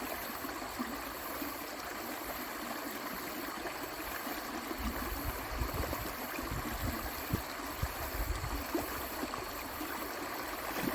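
Creek water running steadily, with a few low rumbles about halfway through.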